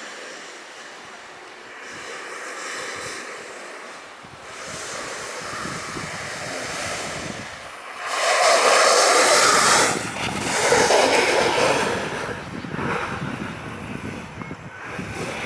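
Alpine snowboard riding downhill: rushing wind on the microphone and the board's edges scraping the slope, swelling loud twice in the second half as it carves through turns.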